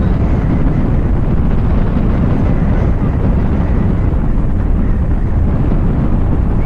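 Wind rushing and buffeting over the camera microphone in flight under a paraglider, a loud, steady low rumble.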